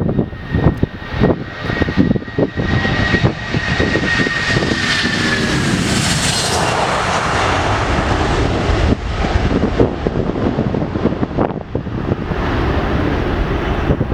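Boeing 757 jet engines at takeoff power: a high whine that drops slightly in pitch over the first five seconds, swelling into a broad rush loudest about six seconds in, then a steady rumble. Wind buffets the microphone throughout.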